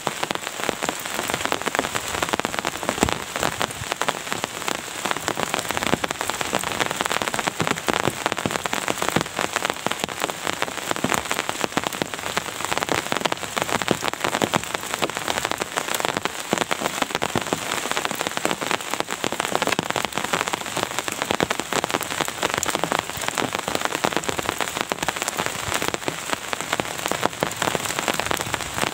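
Steady rain falling, a dense, even patter of many drops hitting a surface.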